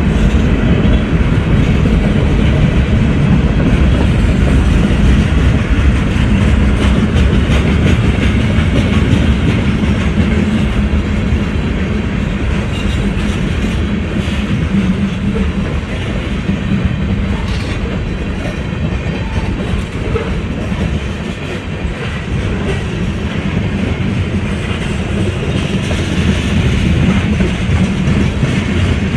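A passing train: railcars rolling by with a steady rumble and rapid clatter of wheels over rail joints, easing a little past the middle and building again near the end.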